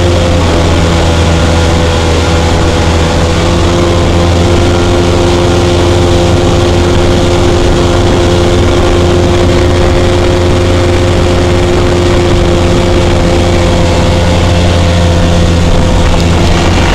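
A 40 hp outboard boat motor running at a steady speed, its pitch holding even throughout.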